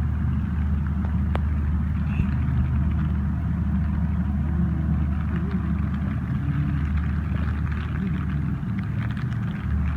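Steady rain hiss over a continuous low rumble.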